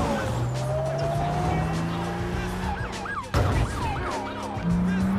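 Car chase sound mix: a car engine accelerating with a steadily rising pitch, police sirens wailing and a loud bang a little over three seconds in, with film score music underneath.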